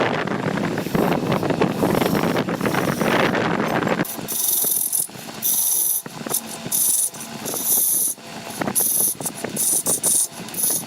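Woodworking machinery at work on wood: a dense, steady noise that changes abruptly about four seconds in to a thinner, stop-start high hiss.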